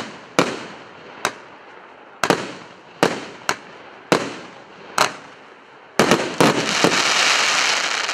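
A 49-shot, 1.25-inch consumer fireworks cake firing single shots about once a second, each a sharp bang with a fading tail. About six seconds in, it bursts into a rapid finale salvo with a dense, steady crackling hiss.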